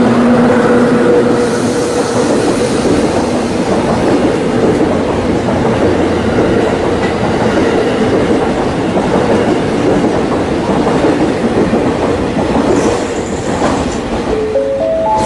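EF66 electric locomotive and the E001 Train Suite Shiki-shima cars it hauls passing close: a loud, steady rumble of wheels on rail with clickety-clack over the rail joints. It eases as the last car goes by near the end, where a short run of rising tones, in steps, sounds.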